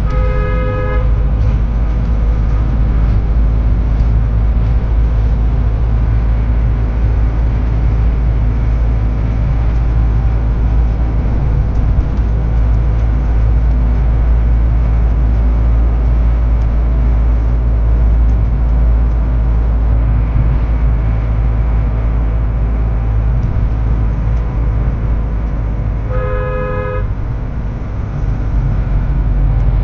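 A vehicle horn honks briefly twice, once right at the start and again about 26 seconds in, over a steady low rumble of road vehicle noise.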